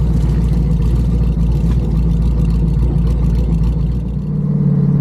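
Twin-turbo LS V8 of a Pontiac G8 running steadily at low speed; about four seconds in, its note shifts up to a higher steady pitch.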